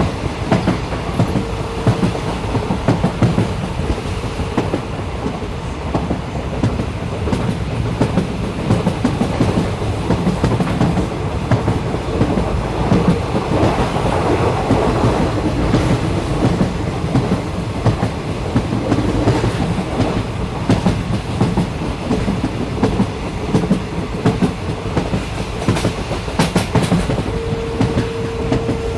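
Train running on rails: a continuous rumble with frequent short clicks of the wheels over the track. A steady whine sounds briefly early on and again near the end.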